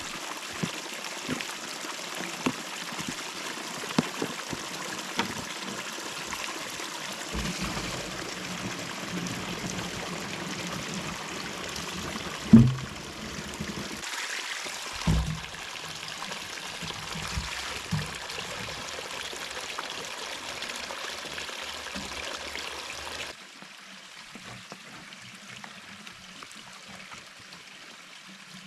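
A small stream running steadily in a snowy ravine. A few dull thumps come near the middle, and the water sounds quieter after a sudden drop in level about three quarters of the way through.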